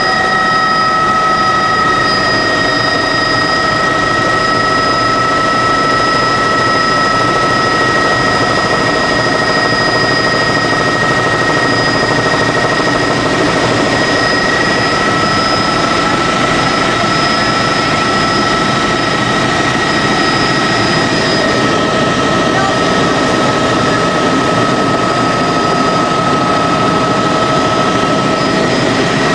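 Helicopter in flight heard from inside the passenger cabin: a loud, steady rush of rotor and engine noise with a constant high whine over it.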